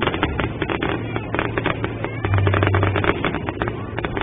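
Fireworks crackling: a dense, irregular run of sharp pops and crackles from crackling-star effects bursting low in the sky, over a low steady rumble.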